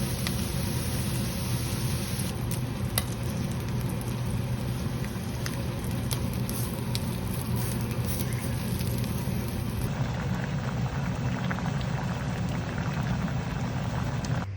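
Food sizzling and frying in a hot pan, with scattered small crackles over a steady low hum.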